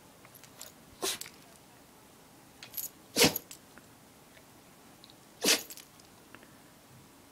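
Dog sneezing three times, about two seconds apart, the middle sneeze the loudest, with faint small clicks between them.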